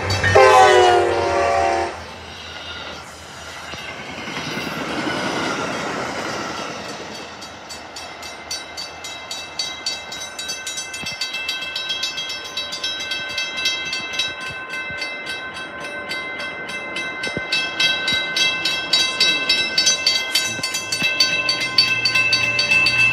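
An MBTA diesel commuter locomotive sounds its multi-tone horn for about two seconds, then the train runs past the crossing with a swell of rumbling noise. After that, the grade-crossing warning bell rings in a rapid, even rhythm that grows louder near the end.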